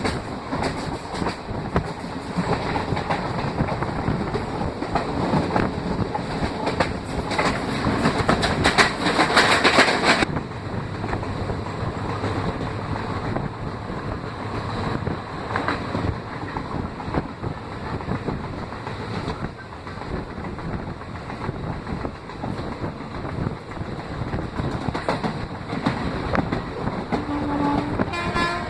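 Passenger train running along the track, heard from a carriage window: a steady rumble of wheels on rails with rhythmic clickety-clack and rushing air. It grows louder for a few seconds and drops back suddenly about ten seconds in.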